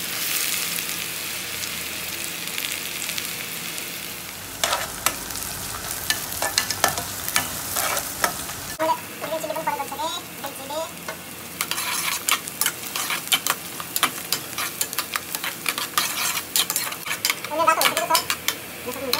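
Onion, green chillies and whole spices sizzling in hot oil in a metal kadai, with a steady frying hiss. From about five seconds in, a metal spoon stirs and scrapes against the pan in quick clicks.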